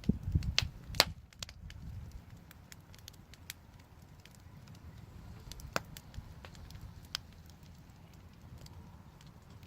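Wood fire crackling, with scattered sharp pops and snaps at an irregular pace; the loudest pop comes about a second in and another near the six-second mark. A low rumble underlies the first two seconds.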